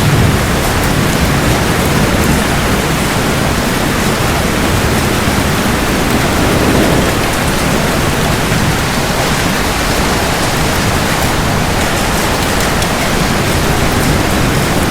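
Heavy rain falling steadily, an even dense hiss, with a low rumble of thunder at the start.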